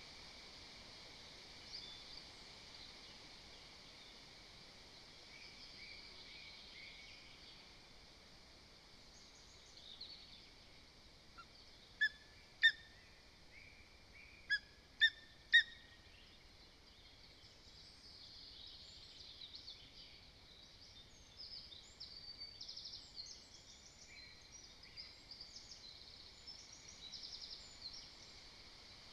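Lesser spotted eagle giving short, sharp yelping calls: two, then a brief pause, then three more in quick succession. Fainter high songbird chirping and twittering runs through the background, busier in the second half.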